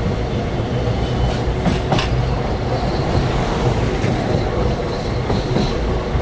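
Passenger train running on the rails, heard from inside the coach at an open window: a steady low rumble with the clack of wheels over rail joints. There are a couple of sharper clacks about two seconds in.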